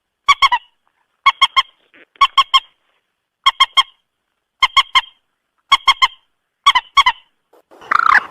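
Moorhen calling: a quick three-note call repeated seven times at about one a second, then a harsher, rougher call near the end.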